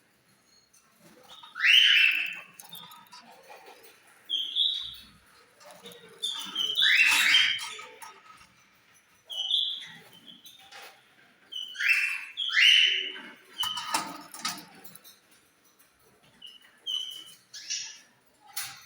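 A flock of caged lovebirds calling: loud, shrill screeches every few seconds, with shorter, higher chirps between them.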